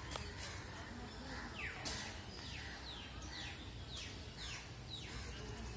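A bird repeatedly calling, faint: short high chirps that each slide down in pitch, about one or two a second, over a steady low rumble of background noise.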